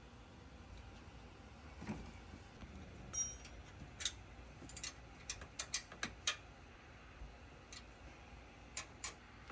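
Scattered light clicks and a brief metallic clink from hand tools and metal parts while the intercooler hose bracket is being fitted, with a quick run of clicks around the middle and two more near the end.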